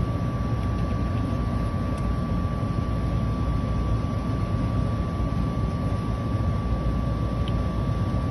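Steady machinery drone and hiss with a constant high whine over it, from rooftop equipment running nearby.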